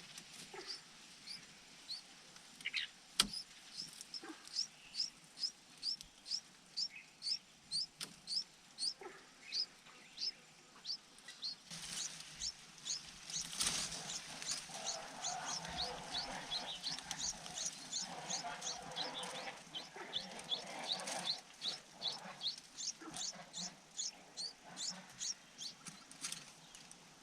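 Red-whiskered bulbul chirping: short high notes that sweep upward, repeated about twice a second, growing louder and denser in the middle with a rougher, noisier stretch before settling back.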